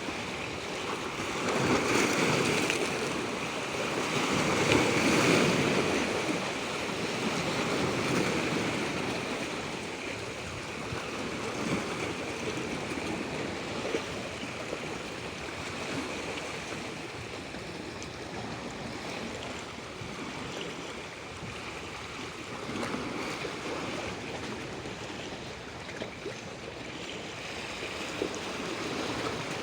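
Natural moving water, a continuous rushing wash with two louder surges a few seconds in before it settles.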